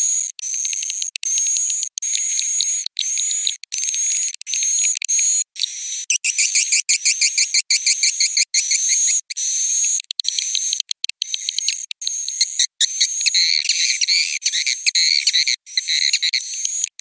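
Swiftlet roosting call ('suara inap'), a recorded lure sound played in swiftlet nest houses: dense high-pitched chirping and twittering of swiftlets, with short rising chirps repeating about twice a second, a rapid run of sharp chirps in the middle, and busier twittering toward the end.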